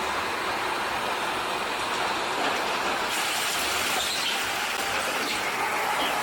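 Steady vehicle noise with no clear engine note, starting abruptly.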